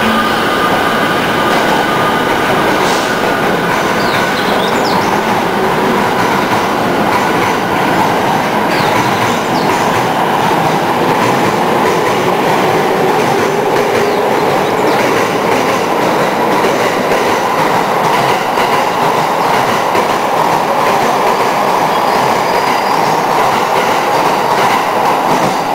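JR E217 series electric commuter train pulling out of the station and running past at close range: a loud, steady rolling and motor noise.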